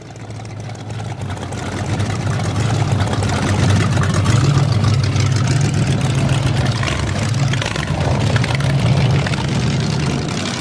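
Rat-rod pickup's engine idling loudly through short open header pipes, a deep steady rumble that builds over the first few seconds and then holds.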